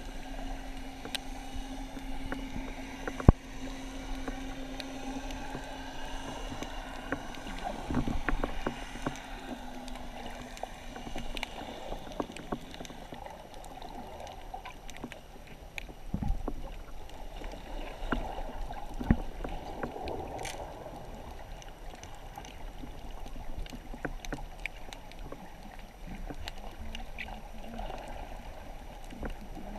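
Underwater noise of a swim in the sea: a constant murky rushing with many scattered clicks and knocks. A steady low hum, like a boat engine carried through the water, runs for about the first ten seconds.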